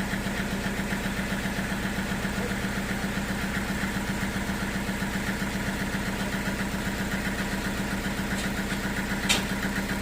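Sawmill engine running steadily at idle with a fast even pulse, and one sharp knock near the end.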